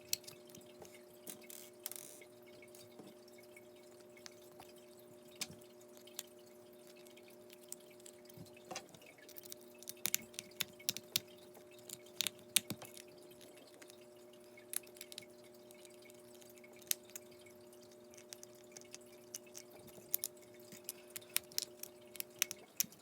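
Wooden fingerboard and its trucks clicking and tapping as it is handled, in scattered sharp clicks that bunch up about ten seconds in and again near the end, over a faint steady hum.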